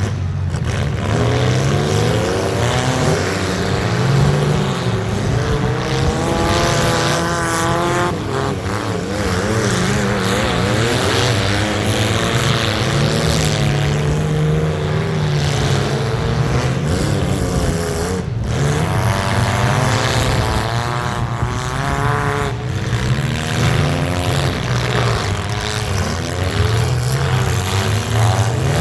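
Engines of several compact cars in a demolition derby revving hard at once, their pitches rising and falling and overlapping continuously.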